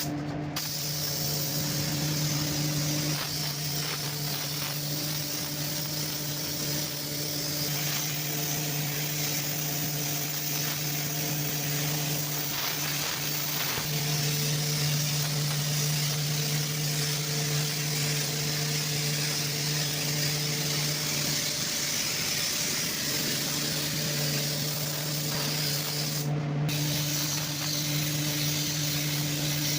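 Steady hiss of compressed air from a paint spray gun over the constant hum of a running motor. The hiss cuts out briefly twice, right at the start and near the end, while the hum carries on.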